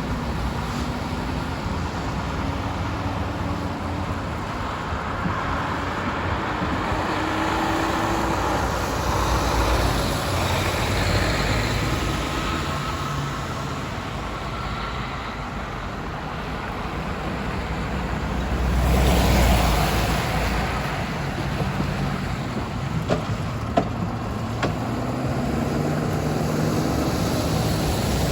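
Freight train passing a grade crossing: a steady rumble and rolling noise with shifting engine tones, swelling louder about two-thirds through, with a few sharp clicks soon after.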